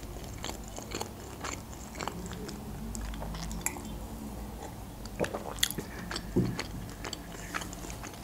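A person chewing and biting food close to the microphone, with irregular small mouth clicks.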